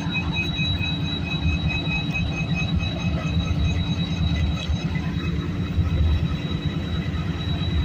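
Train running over the rails, heard from on board: a dense, steady low rumble with a faint high-pitched whine held throughout.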